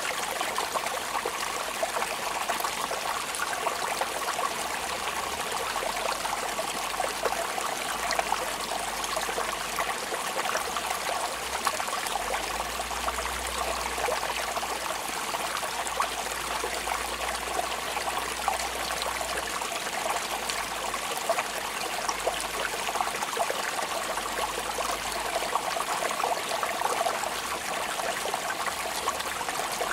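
Steady rain falling: an even hiss of many small drops, with no let-up.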